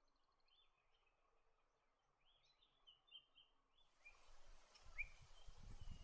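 Faint songbird calls: short repeated chirps for about four seconds. About four seconds in they give way to a louder hiss and gusty low rumble, with a few scattered calls over it.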